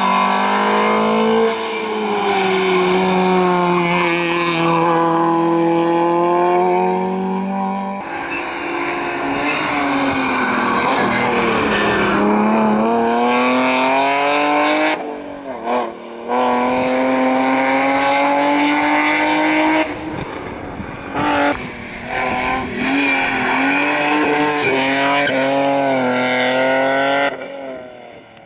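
Rally cars driven flat out, one after another: engines revving high, dropping on the brakes and gearshifts and climbing again as they accelerate away.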